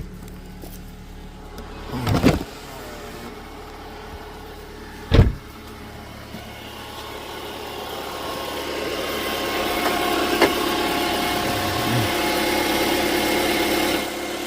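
2010 Toyota Camry 2.5-litre four-cylinder engine idling just after being started on its newly fitted starter. Two loud knocks about two and five seconds in. A steadier, louder hum builds from about seven seconds and cuts off sharply near the end.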